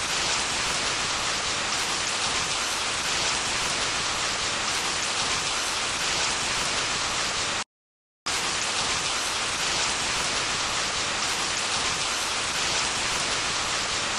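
Steady hiss of heavy rain with no separate drops standing out. It cuts off completely for about half a second a little past the middle, then starts again unchanged.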